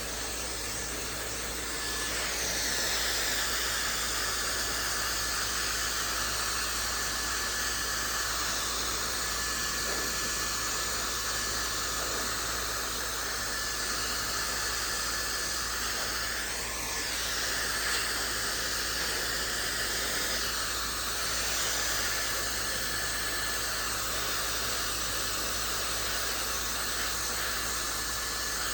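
Maxodo high-speed hair dryer running steadily while drying wet hair: a rush of air with a thin high whine from its fast motor. The air sound shifts a little as the dryer is moved about.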